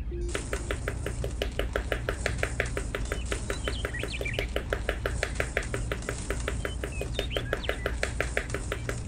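Fast, even tapping or clicking, about six strokes a second, that starts just after the beginning and stops near the end. Faint short chirps sound over it, with a steady low hum beneath.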